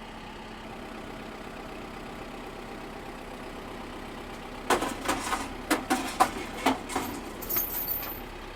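A vehicle engine idles steadily. About four and a half seconds in, a rapid series of sharp bangs and clatters lasts about three seconds, with a brief high squeal near the end, as the chain tears the burnt net wrap out of the baler violently.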